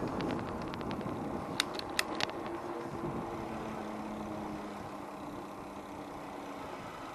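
Motor-vehicle traffic noise with a faint engine hum, slowly fading away. A few sharp clicks come about two seconds in.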